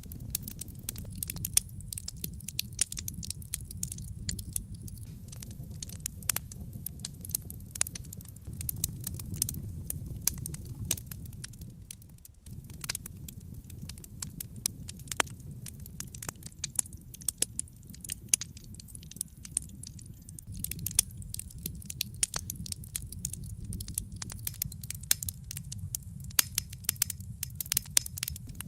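Wood fire burning in a fireplace: frequent sharp crackles and pops of burning logs over a steady low rumble of the flames, which dips for an instant about twelve seconds in.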